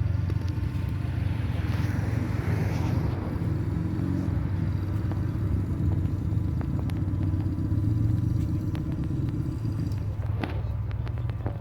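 A motorcycle engine running steadily at idle, a low, even note, with a short rise in higher-pitched noise about two seconds in.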